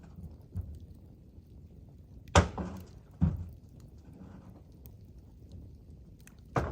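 A few sharp knocks, the loudest about two and a half seconds in, another just under a second later and a third near the end, over a low steady background.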